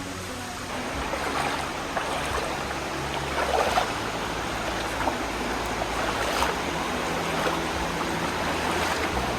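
Rushing water of a shallow river flowing over rocks, with a few louder splashy moments.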